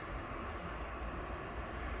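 Steady vehicle rumble with a noisy hiss over it, without clear changes or separate knocks.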